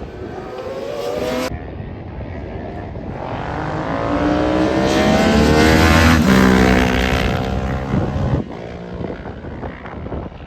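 Racing motorcycle engines at full throttle, passing by. The engine note climbs to its loudest about six seconds in, then drops in pitch and fades as the bikes go past.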